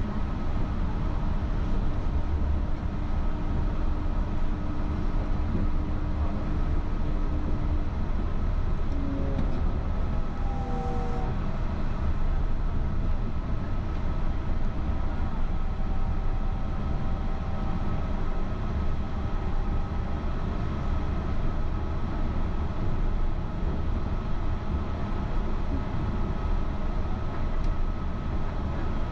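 Yurikamome rubber-tyred automated guideway train running between stations, heard from inside the car: a steady rumble with a faint steady whine. A few brief sliding tones come about ten seconds in.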